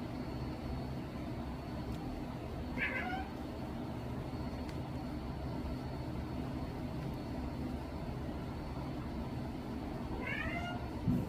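Domestic cat giving two short meows, one about three seconds in and one near the end, each falling in pitch, over a steady low background hum.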